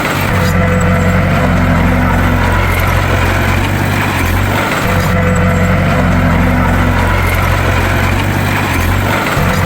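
Bulldozer's diesel engine running steadily with a deep engine note, its pitch dipping briefly about every four to five seconds.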